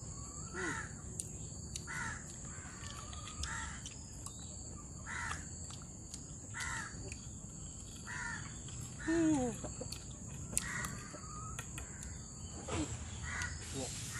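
A bird calling over and over with short harsh calls, one every second or two, over a steady high-pitched insect drone. A louder falling call comes about nine seconds in.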